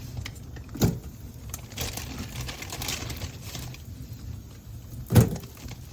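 Spiced chicken patties going into a hot buttered frying pan and sizzling, with two sharp knocks, one about a second in and a louder one near the end.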